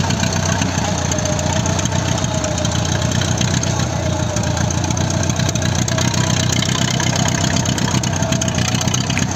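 A car engine running steadily at an even pace, with a constant rushing hiss over it.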